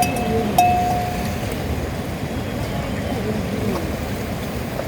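A steady outdoor rushing noise, strongest at the low end. Near the start come two short, clear ringing tones, the second held for under a second.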